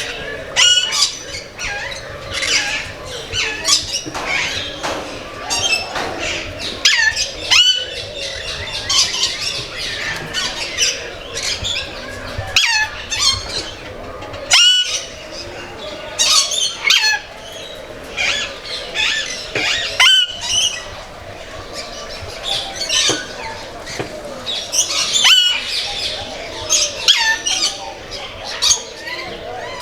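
Many aviary birds calling at once: a dense chorus of squawks, chirps and whistles overlapping throughout.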